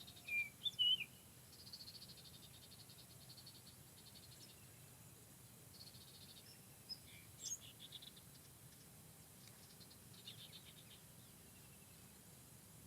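Faint forest ambience with short, high bird chirps in the first second and again about seven seconds in. Between them come several bursts of rapid pulsed trilling, on and off.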